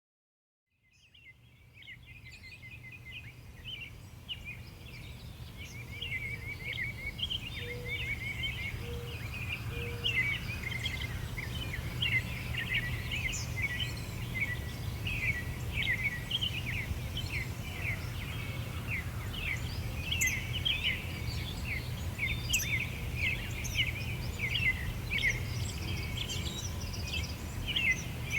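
Birds chirping and singing in quick, overlapping phrases over a steady low background rumble, fading in from silence in the first few seconds.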